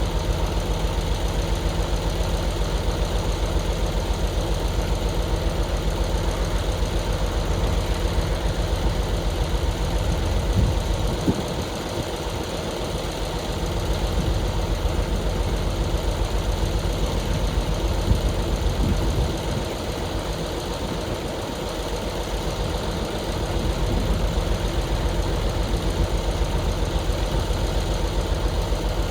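A heavy-equipment engine running with a fast, even chugging pulse. It eases off twice for a couple of seconds, about a third and two-thirds of the way through, then picks back up.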